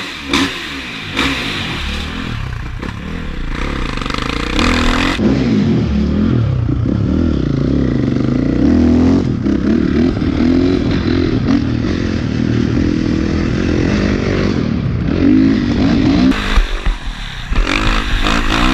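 Dirt bike engine running and revving, its pitch rising and falling repeatedly.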